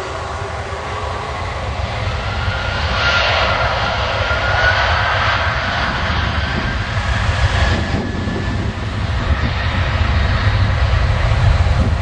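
Airbus A300-600 jet engines running, growing steadily louder, with a thin whine that climbs slightly in pitch near the middle.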